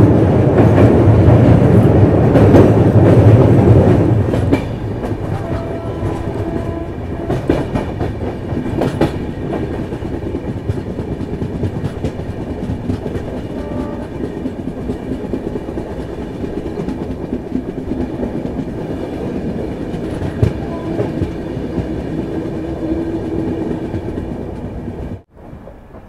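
Express train running at speed, heard from on board: a steady rumble with the wheels clattering over rail joints. It is loudest for the first four seconds or so, then settles to a steadier run, and drops out abruptly for a moment near the end.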